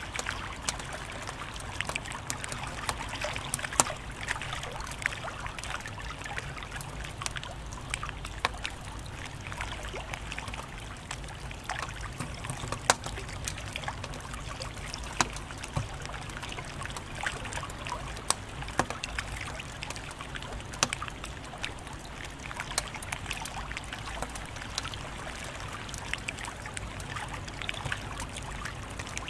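Wood fire crackling steadily under a constant soft hiss, with frequent sharp pops and snaps, a few noticeably louder ones near 4 and 13 seconds in.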